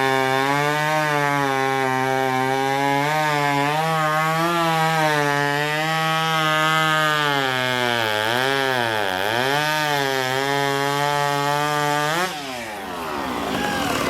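Two-stroke racing chainsaw at full throttle cutting through a log, its pitch sagging under load about eight seconds in. About twelve seconds in it comes out of the cut and its pitch falls away as the engine winds down.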